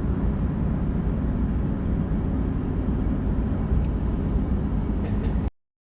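Truck driving on the road: steady engine and road noise that cuts off abruptly near the end.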